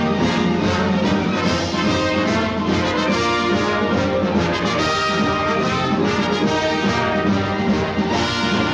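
Orchestral cartoon score led by brass, playing busily without a break.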